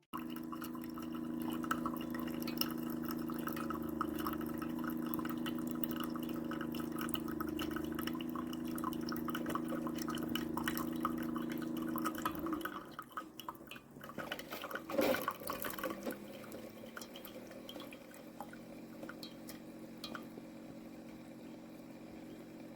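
Keurig K-Supreme Plus Smart pod coffee maker brewing: a steady pump hum with coffee streaming and dripping into the cup. The flow stops about twelve seconds in, leaving a few drips and a fainter hum.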